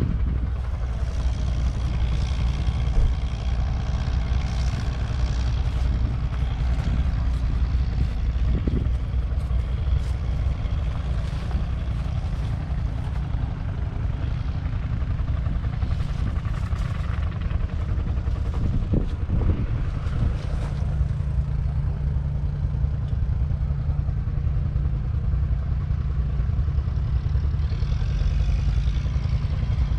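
Case IH 956 XL tractor's 5.9-litre six-cylinder diesel engine running steadily, with scattered clatter and knocks. Its note changes about two-thirds of the way through.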